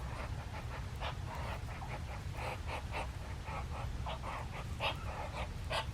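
A dog panting: short, irregular breathy puffs, a few each second, over a steady low rumble.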